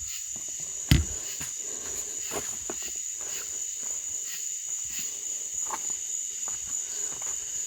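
Steady high-pitched chorus of crickets, with one sharp knock about a second in and a few faint ticks.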